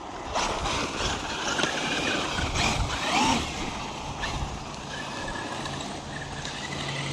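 Traxxas UDR electric RC desert truck driving on a dirt track: rough crunching from the tyres and suspension, with the motor's whine rising once about three seconds in and holding a steady pitch later on.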